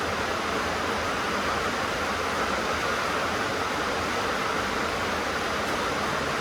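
Heavy rain drumming steadily on a tin roof, a dense, even hiss with no pauses.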